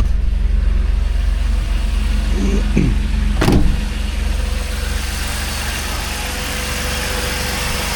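2005 Jeep Wrangler TJ engine idling steadily just after an oil change, oil pressure up and no ticking from the valvetrain. A single sharp knock about three and a half seconds in.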